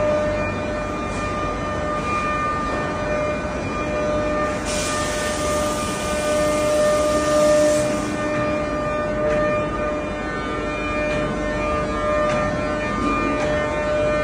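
CNC router spindle whining steadily at high speed as it cuts wood. A harsher, hissing cutting noise joins in about five seconds in and lasts about three seconds.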